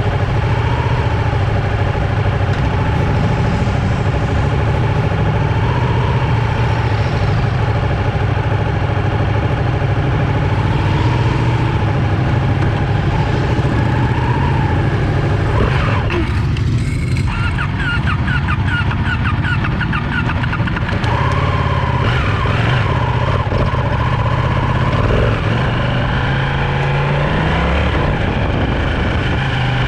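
Sport motorcycle engine running hard on a race track, loud and continuous. Just past halfway the sound changes for a few seconds into a rapid fluttering higher up, then carries on.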